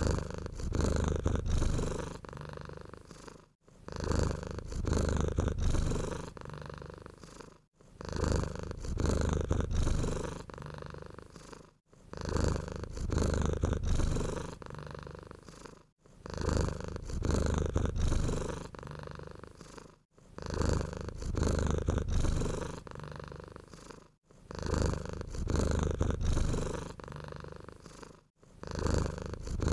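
Domestic cat purring close to the microphone: a low, steady rumble that swells and fades with each breath, about every four seconds.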